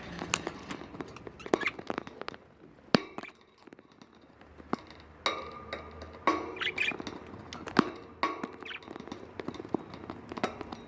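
Pet budgies in their cage: repeated sharp clinks and taps, as of beaks pecking at hard cage objects, with a few short chirps between about five and nine seconds in.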